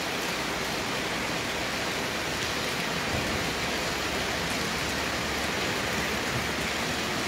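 Steady rain falling on a wet stone-paved street and the balconies and walls around it.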